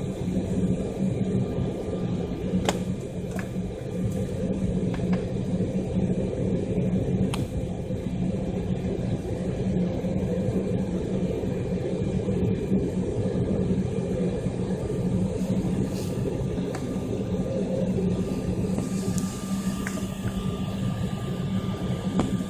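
Steady drone of an airliner cabin: engine and ventilation noise with a strong low hum and a faint steady whine above it, and a few light clicks.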